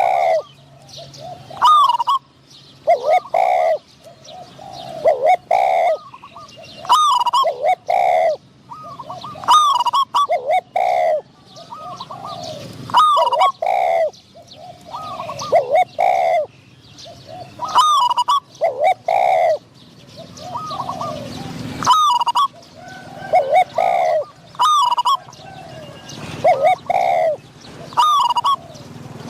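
Spotted dove cooing in repeated phrases, a new phrase about every two seconds: the call of a decoy dove answering a wild bird. Thin high chirps sound between the coos.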